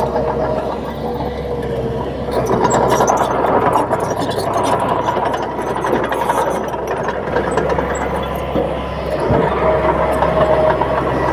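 Komatsu D31P bulldozer's diesel engine running steadily under load, with a held whine and scattered sharp clicks over it.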